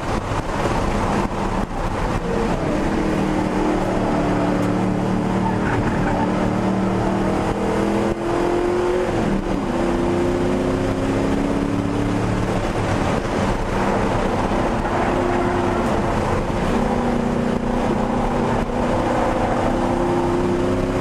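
1999 Ford Mustang GT's 4.6-litre V8, heard from inside the cabin under hard acceleration on track. The engine note climbs steadily and drops back twice, about eight seconds in and again about sixteen seconds in, as it shifts up and pulls again.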